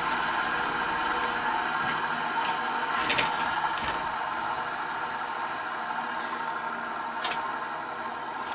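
A repaired Black & Decker No 605 Type A 6-inch, 1/4 horsepower bench grinder running with a steady motor hum and whir. There are a couple of brief clicks, about three seconds in and again near the end, and the sound slowly gets a little quieter.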